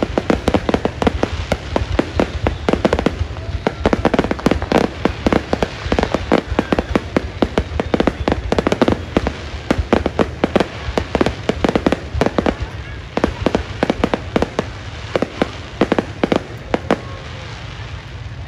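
Fireworks going off in a dense, rapid barrage of bangs and crackles that thins out and stops near the end.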